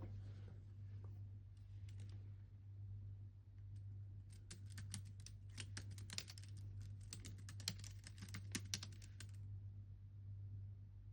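Typing on a computer keyboard: a few scattered keystrokes, then a quick, dense run of keystrokes from about four seconds in until about nine and a half seconds in. A steady low hum runs underneath.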